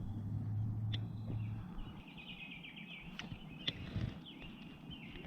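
Outdoor chirping in fast repeated high notes, typical of a bird or calling insects, running from about a second in, over a steady low hum that stops after about a second and a half; a few light clicks sound in between.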